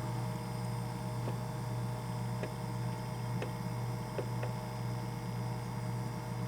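Black & Decker thermal carafe drip coffee maker starting to brew: a steady low hum with a few faint ticks.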